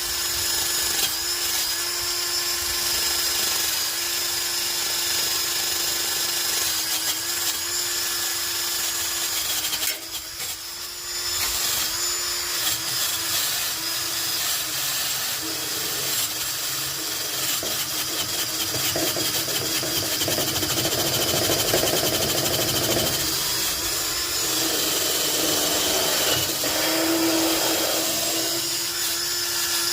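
Handheld electric power tool running at a steady speed, cleaning rust off an exhaust pipe ahead of welding. It lets off briefly about ten seconds in. From about halfway on, a rough scraping noise rides on the motor as the tool bears on the metal.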